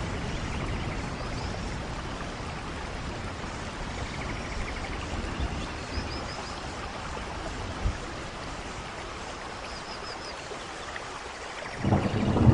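Steady rain falling, with a few faint high chirps now and then; near the end a low rumble comes in suddenly and grows louder.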